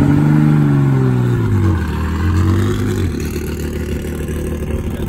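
1972 Porsche 911's air-cooled flat-six running, its revs falling away over the first two seconds or so and then settling to a steady lower note.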